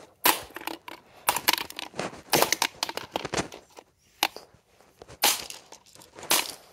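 Sledgehammer striking a small plastic toy again and again, about once a second, each blow a sharp crunching hit followed by a brief clatter of smaller cracks as the plastic breaks.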